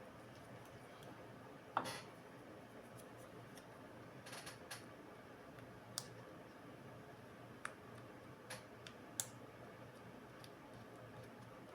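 A few small, sharp clicks and taps over a faint steady background hum. The sharpest comes about two seconds in, with a cluster around four to five seconds and more near six, eight and nine seconds.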